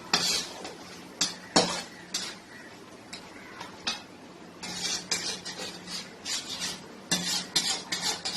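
A spoon stirring and scraping thick, nearly dry chicken thokku masala against the pan in short, irregular strokes, with a few brief clinks.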